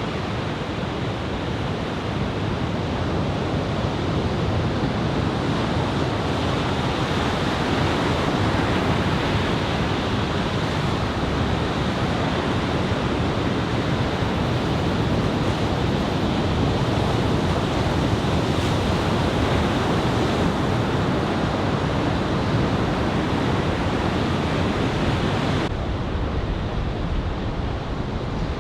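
Ocean surf from a head-high typhoon swell, breaking and washing in a steady continuous rush, with wind rumbling on the microphone. The hiss dulls abruptly near the end.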